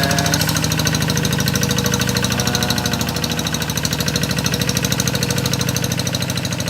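Rice-paddy plowing tractor's engine running steadily with a rapid, even beat.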